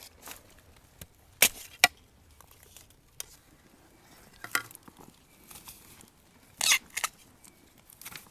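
Dry plant matter snapping and crackling: several separate sharp snaps, then a longer crackling rustle near the end.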